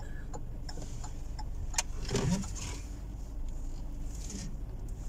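Car engine idling, heard from inside the cabin as a steady low rumble, with a few light clicks.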